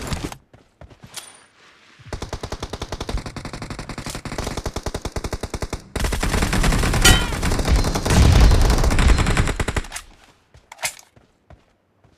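Automatic gunfire in a shooter video game. A rapid, even burst runs for about four seconds and is followed by a louder, heavier stretch of continuous fire for about four more, with a single shot near the end.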